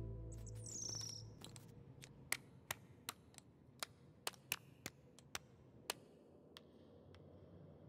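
A thrush gives one short falling chirp, then knocks a snail shell against a rock: about a dozen sharp, irregular taps over some four seconds, ending with one faint tap.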